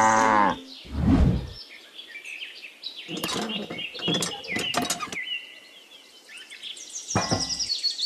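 Birds chirping in quick runs of short, high tweets and falling whistles through most of the clip, after a low whoosh about a second in.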